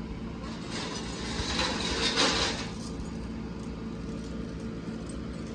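A truck engine running steadily, with a rushing hiss that swells and fades about two seconds in.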